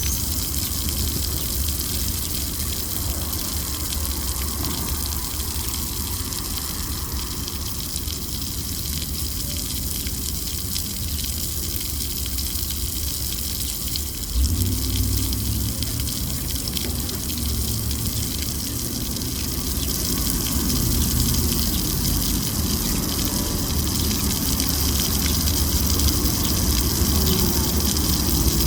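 City traffic ambience: a steady rushing noise over a deep rumble. A heavier low rumble sets in suddenly about halfway through and grows louder toward the end.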